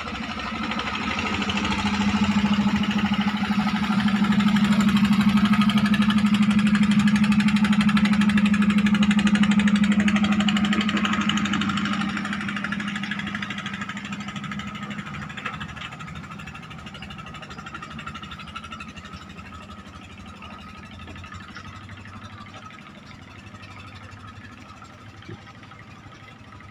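Engine of a klotok river motorboat running steadily as it passes. It grows louder over the first few seconds and holds for several seconds, then fades away from about twelve seconds in.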